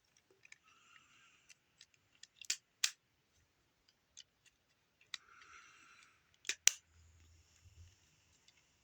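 Hard plastic toy pieces and their box being handled: scattered sharp plastic clicks and snaps, the loudest two close together near the end, between stretches of scraping and rustling.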